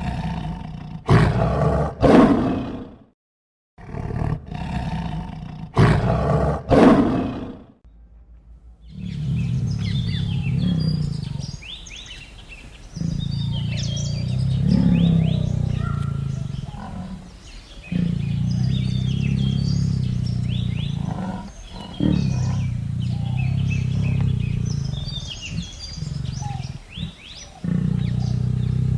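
A large animal roaring loudly several times, then a run of long, low, drawn-out calls a few seconds each, with birds chirping in the background.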